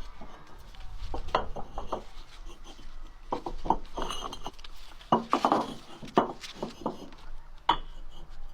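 Irregular knocks and clinks of cookware being handled, coming in clusters with the loudest near the middle.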